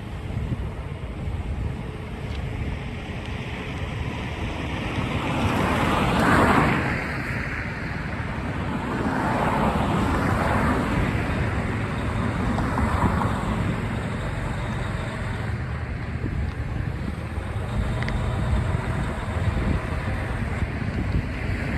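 Road traffic with wind buffeting the microphone: a steady low rumble, with vehicles passing about six seconds in (the loudest moment) and again around ten and thirteen seconds.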